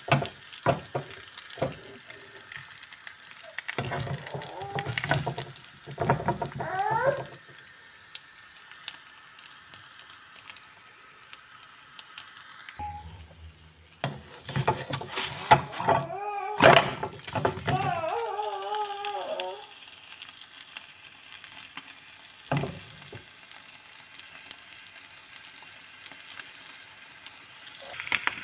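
Egg, bread and ham frying in a nonstick pan, with a steady sizzle. A plastic spatula scrapes and taps against the pan as the food is pressed and turned. A few short warbling pitched sounds come in twice, about a quarter of the way in and around the middle.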